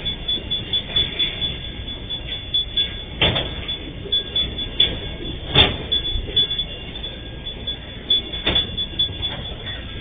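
Empty freight train wagons rolling past with a steady rumble and rattle, and three sharp metallic clanks about three, five and a half and eight and a half seconds in.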